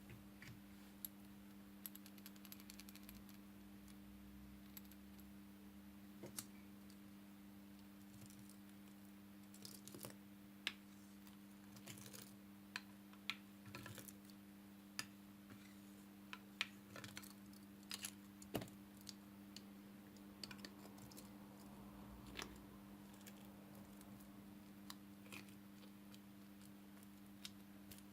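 Irregular small clicks and pops of slime being handled, a few a second at times, some sharper than others, over a steady low hum.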